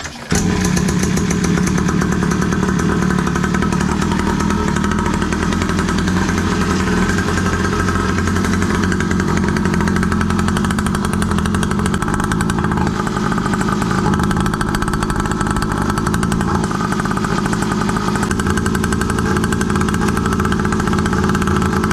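The 49cc two-stroke engine of an Enduro 87 dual-exhaust mini pocket bike runs steadily with a buzzing two-stroke note. It cuts in abruptly right at the start. Its tone shifts briefly a couple of times midway, as one exhaust outlet and then the other is covered.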